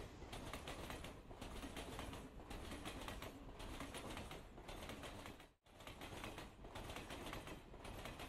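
Faint steady background hiss with no distinct event, dipping briefly about once a second.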